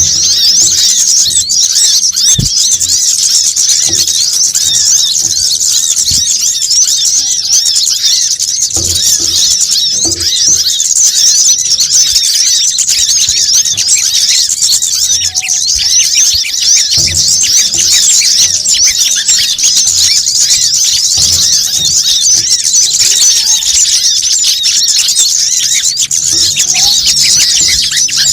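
Bird-trapping lure recording of small birds, sold as kemade, sogon and coconut sunbird (kolibri kelapa) calls. It is a dense, unbroken chatter of rapid high-pitched chirps and twitters, with a few faint low thumps underneath.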